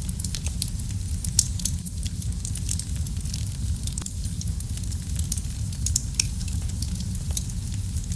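Wood fire crackling in a fireplace: a steady low rumble of the flames with frequent sharp pops and crackles, one louder pop about a second and a half in.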